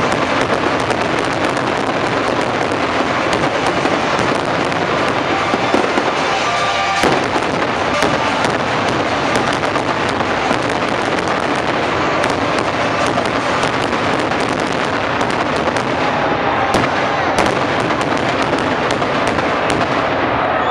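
Fireworks display going off continuously: a dense barrage of sharp bangs and crackles over a constant roar, with no let-up.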